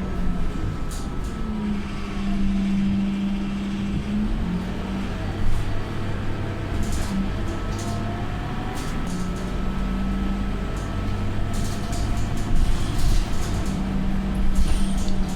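Scania K230UB city bus with a ZF Ecomat automatic gearbox running on the road; its engine note changes pitch several times. Short light rattles come through now and then.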